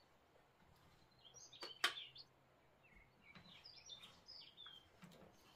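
Faint bird chirps over a quiet background, with a single sharp click about two seconds in.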